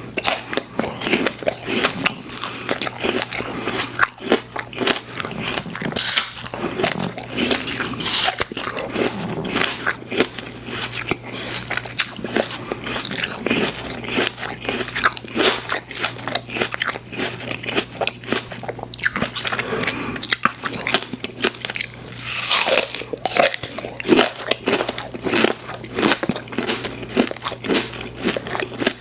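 Close-miked chewing and biting of sweets: continuous wet, crackly mouth sounds with crunches, and a few louder bites about six, eight and twenty-two seconds in. A steady low hum runs underneath.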